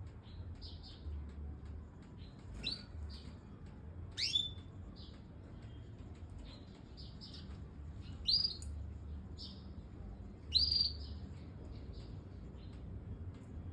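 Domestic canary chirping: a run of short, high, separate notes, with three louder sweeping calls about four, eight and ten and a half seconds in.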